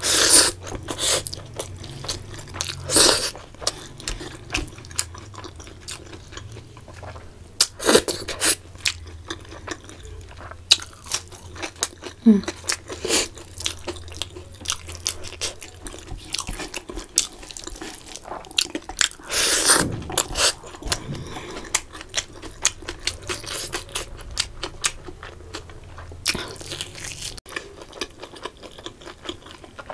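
Close-up eating sounds of a person chewing mouthfuls of rice and curry eaten by hand: wet smacking and irregular crunchy bites, with louder bursts every few seconds.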